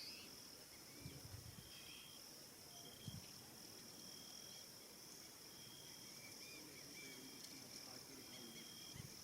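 Faint evening insect chorus: a steady high buzz, with shorter even trills a little lower in pitch coming and going every second or two. A few faint low thuds near the start and near the end.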